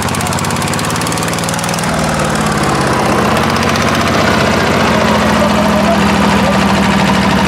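Tractor engine running steadily with an even, fast firing beat; the low end of the engine note grows fuller about two seconds in.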